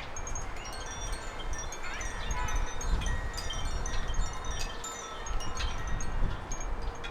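Small garden birds chirping and twittering: many short high notes and quick rising chirps overlapping throughout, over a low wind rumble on the microphone.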